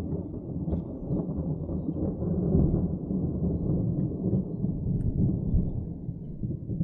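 Long rolling rumble of thunder that swells twice and eases off near the end. It comes from the storms' cloud-to-ground lightning, every strike of which the chaser reports as positively charged.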